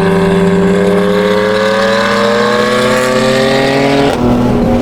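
Car engine accelerating hard, its pitch climbing steadily as it revs up in one gear, then dropping suddenly about four seconds in at an upshift.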